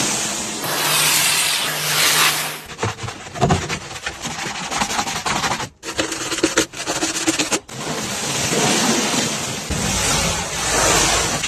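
Car-wash noise: a steady rushing hiss of water spray and scrubbing against a car's body, with a low hum underneath at times. It cuts off abruptly twice, a little past halfway, as separate clips are joined.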